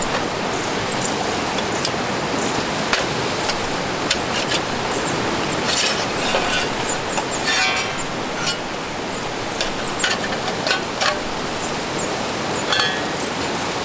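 Steady rushing outdoor noise, with light clicks and small metallic clinks scattered irregularly throughout, like camp gear being handled.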